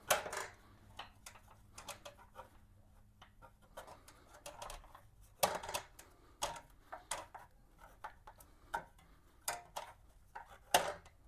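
Scattered light clicks and taps of chrome trim pieces and their bolts being handled and shifted into place to line up the bolt holes, with a couple of louder knocks about five and a half seconds in and near the end.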